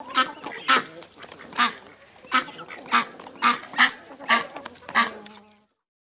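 Waterfowl calling: about nine short, loud calls in an irregular series, one to two a second, then stopping abruptly.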